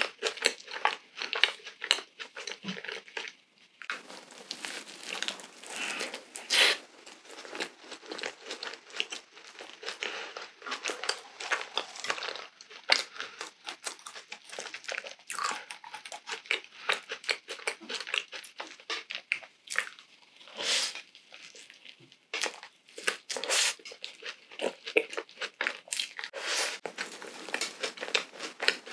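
Close-miked chewing of a crunchy, crumbly baked treat: a dense, uneven run of crisp crunches and small wet mouth clicks.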